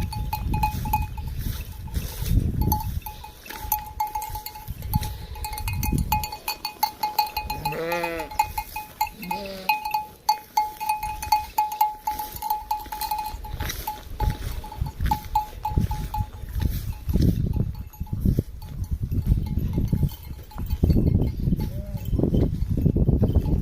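Livestock bells ringing repeatedly as a bleating flock moves, with a few bleats, two of them close together about eight seconds in. A heavy low rumble runs underneath.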